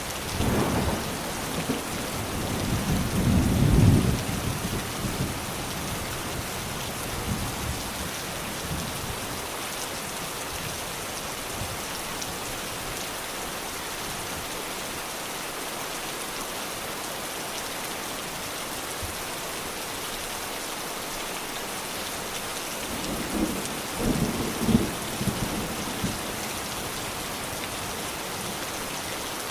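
Steady rain falling, with rolls of thunder: one rumble building over the first few seconds and peaking around four seconds in, another about three quarters of the way through.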